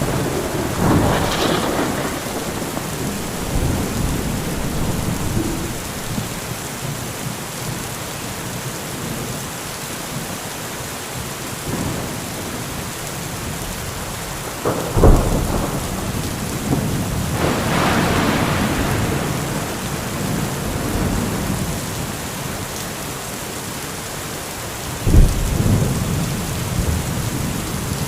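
Steady heavy rain with repeated thunder: a rumble near the start, sharp cracks of close lightning strikes about halfway through and again near the end, and a rolling peal between them.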